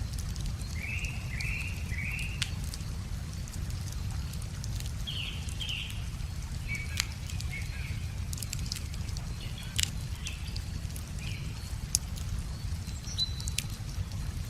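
Wood fire crackling, with scattered sharp pops, the loudest about 2, 7, 10 and 12 seconds in. Over it are short chirping phrases of birdsong in several groups, and under it a steady low rush, from the river.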